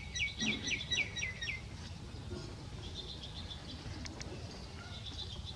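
Bird chirping: a quick run of about seven short notes, each sliding down in pitch, over the first second and a half, then a few softer chirps.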